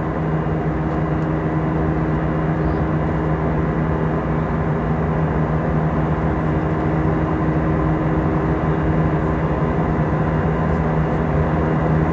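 Cabin noise inside a Delta Air Lines Airbus A320: the steady drone of the engines and airflow with a constant low hum, holding an even level without rising or falling.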